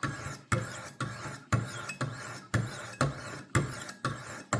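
Sharpening stones on a Wicked Edge WE60 guided sharpener rasping along a steel knife blade in regular strokes, about two a second. Each stroke starts sharply and fades. The stones are pushed off the edge with very light pressure, riding mostly under their own weight.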